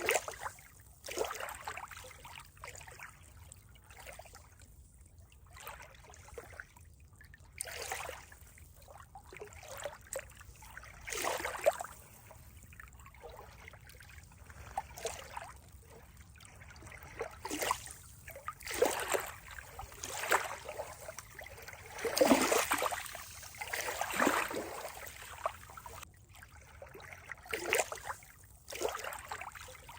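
Water trickling and splashing in irregular spurts, with short quieter gaps between them. The loudest splashes come about two thirds of the way through.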